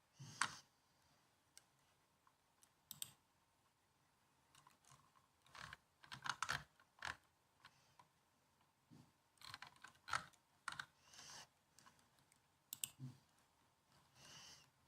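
Laptop keyboard being typed on: soft key clicks in irregular bursts of a few keystrokes, with short pauses between.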